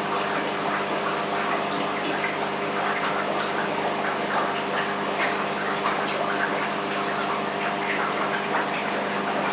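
Aquarium water bubbling and trickling from the tank's filter or aeration, with a steady running hum under a constant fizz of small bubble pops.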